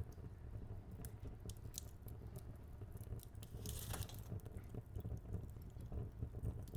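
Fire crackling in a fireplace: scattered sharp snaps and pops over a low rumble, with a brief hiss about four seconds in.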